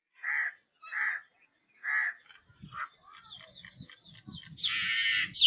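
Birds calling: three short, harsh calls about a second apart, then a fast run of high, rising chirps, and a longer harsh call near the end. A faint low rumble sits underneath from about halfway in.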